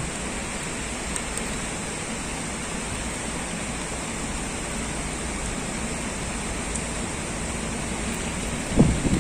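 Heavy typhoon rain falling in a steady hiss. Near the end comes a brief, louder low rumble.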